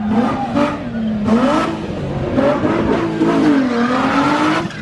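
Car engine revving up and down repeatedly, its pitch rising and falling, as the driver tries to get the car spinning into donuts.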